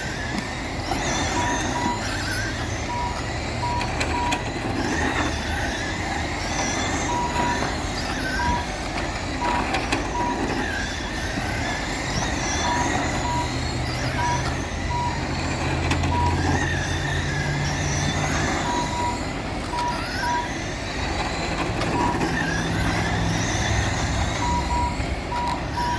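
Several radio-controlled race cars running laps, their motors whining up and down in pitch as they speed up and slow through the turns. Short beeps at one steady pitch sound now and then, some in quick runs, typical of a lap-timing system counting cars as they cross the line.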